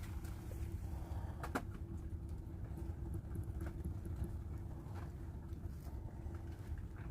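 Strong wind buffeting a parked car, heard from inside the cabin as a steady low rumble. Scattered light taps run through it, with one sharper click about one and a half seconds in.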